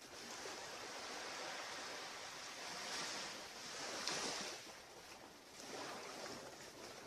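Ocean waves washing onto a beach: a steady surf hiss that swells twice, about three and four seconds in.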